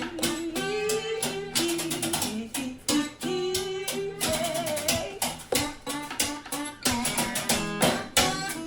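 Music playing: a strummed guitar with a melody line over it.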